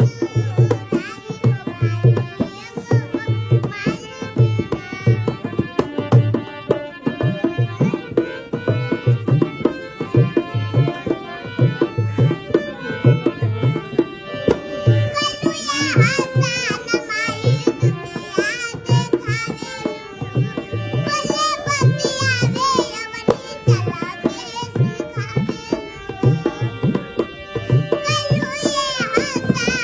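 Indian folk music with a fast, steady hand-drum beat. A high voice sings over it from about halfway and again near the end.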